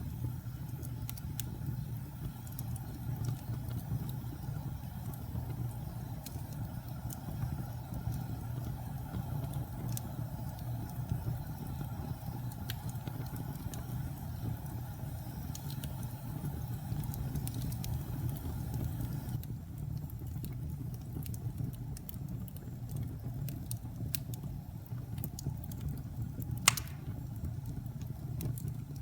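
Logs burning in a fireplace: a steady low rumble of the flames with scattered crackles, and one sharp, louder pop near the end.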